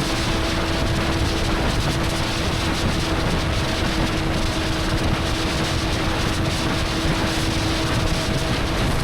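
Inline-four sport motorcycle engine holding a steady note at constant cruising speed, with heavy wind rush on the microphone.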